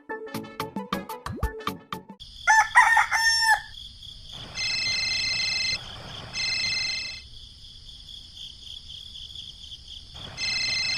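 A rooster crowing about two seconds in, after a run of quick taps. A steady high-pitched drone follows, broken by several shrill buzzing bursts.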